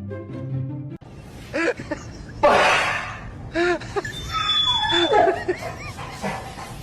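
A short bit of music, then people laughing in short bursts, with a loud rushing burst about two and a half seconds in.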